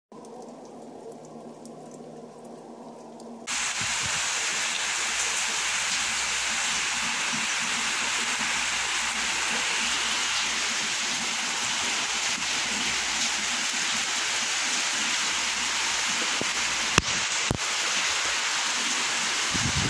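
Rain. For the first few seconds it is light rain on a wet, muddy street, fairly quiet. About three and a half seconds in, the sound switches to a heavy downpour, a loud steady hiss, with two sharp clicks near the end.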